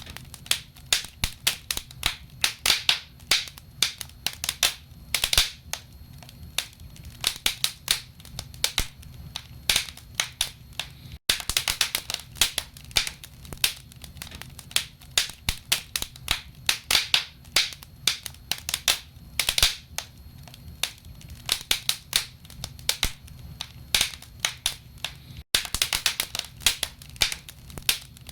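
Wood fire burning in a fireplace, logs crackling with quick irregular sharp pops, several a second, over a faint low rumble.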